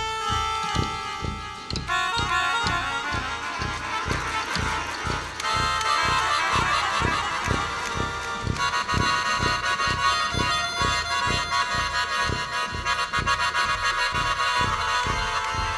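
Instrumental jazz from a small brass ensemble, with trumpet, flugelhorn, baritone saxophone, tuba, keyboards and drums. Reedy held chords change twice over a steady low beat.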